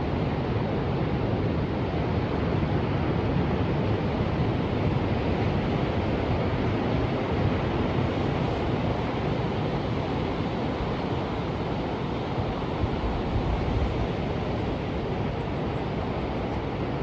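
Ocean surf: a steady rush of waves with no single break standing out, its loudness swelling slightly and easing again.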